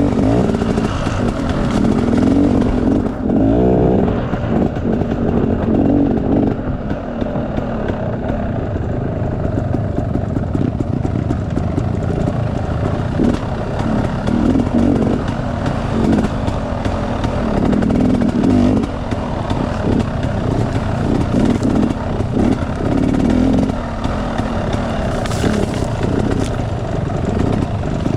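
Enduro dirt bike engine running, the throttle opening and closing so the revs rise and fall every few seconds.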